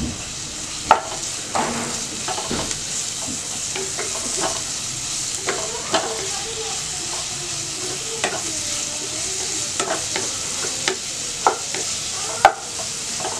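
Onions, green chillies and ginger-garlic paste sizzling in hot oil in a nonstick pan while a wooden spatula stirs them, with irregular knocks and scrapes of the spatula against the pan. The sharpest knocks come about a second in and near the end.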